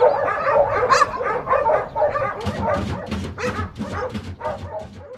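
Many shelter dogs barking at once, a dense overlapping chorus of barks and yips that grows somewhat quieter over the last couple of seconds and then stops abruptly.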